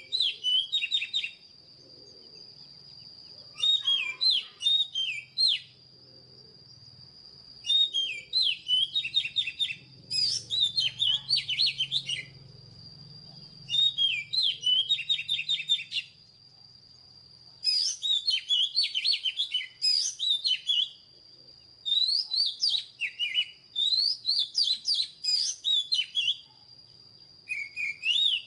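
Oriental magpie-robin singing: phrases of rapid, varied whistled notes, each one to four seconds long, repeated after short pauses.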